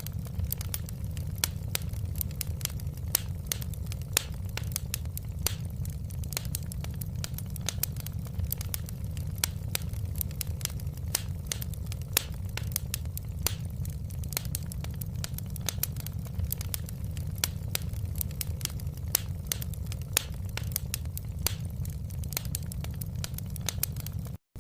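Wood fire crackling: many irregular sharp pops and snaps over a steady low rumble of the burning fire. The sound cuts out for a moment just before the end.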